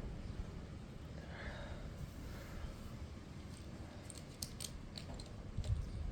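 Plastic Lego bricks being handled and clicked together, with a cluster of sharp clicks about two-thirds of the way through, over a steady low rumble.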